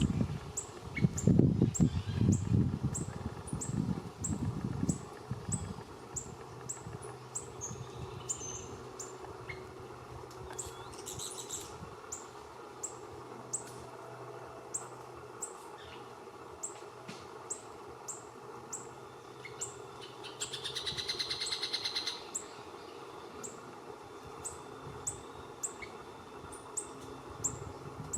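Small birds calling: a thin, high, down-slurred chip repeats about one and a half times a second throughout, with a short buzzy trill about 20 seconds in. Loud low rustling fills the first five seconds.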